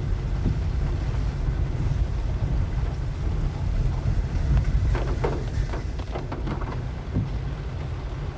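Car driving on a wet, sandy street: a steady low rumble from the engine and tyres, with a few short knocks and creaks about five to six and a half seconds in.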